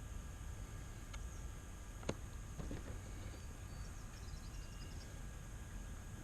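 Faint outdoor background: a steady low rumble, one sharp click about two seconds in, and a few faint high chirps a little past the middle.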